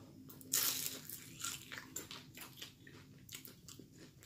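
A person biting into a fried shrimp purse (wonton-wrapper money bag) about half a second in, then chewing it with a run of crunches.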